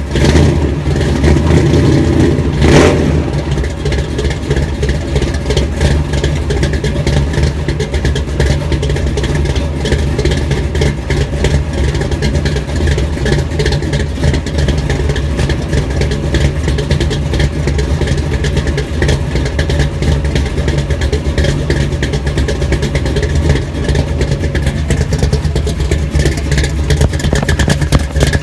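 Supercharged (blown) Hemi V8 engine running steadily at idle on a cold start, with a brief rise in engine sound in the first couple of seconds before it settles back to idle.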